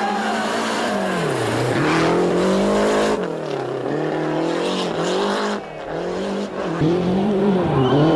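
Rally car engine at full stage pace, its pitch repeatedly rising under acceleration and dropping sharply at gear changes and lifts, with a brief lift a little past the middle.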